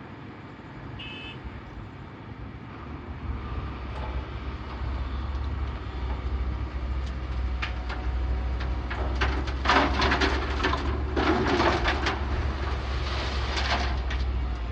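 Heavy diesel machinery running with a steady low hum that builds over the first few seconds. Loud rough clattering and scraping bursts come in the second half, typical of silt and stones being dug or dumped during river desilting.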